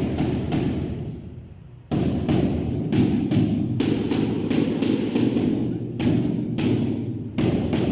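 A rapid run of repeated thuds, about two to three a second, over a steady background noise. It fades out about a second in and starts again abruptly just before two seconds.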